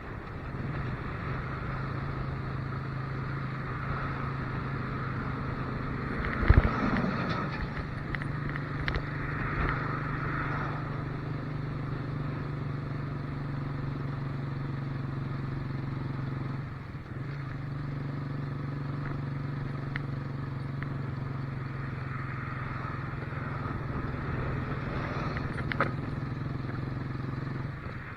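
Motorcycle engine running steadily under way, with road and wind noise. The engine sound drops briefly about seventeen seconds in. A sharp thump about six and a half seconds in is the loudest sound.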